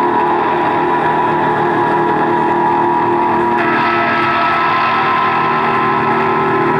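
Live band's amplified instruments holding a dense, steady drone of layered sustained tones with no beat. A brighter, higher layer comes in about three and a half seconds in.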